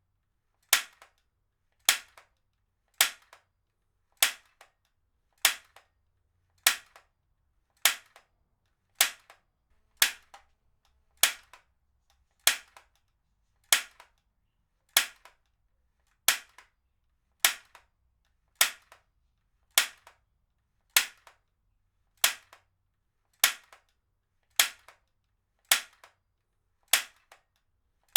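Heavy-duty stapler fired over and over at an even pace, about one sharp snap every 1.2 seconds, each followed by a fainter click.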